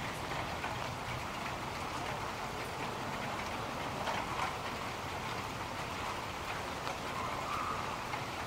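Steady rainfall, an even hiss with scattered drop taps.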